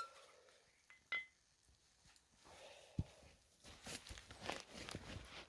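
Quiet handling of camp cooking gear: a single light metallic clink about a second in, a low thump around the middle, then soft rustling and shuffling.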